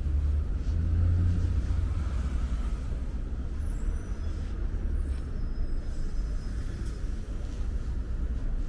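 Low, steady rumble of road traffic, with a faint high squeal a few seconds in.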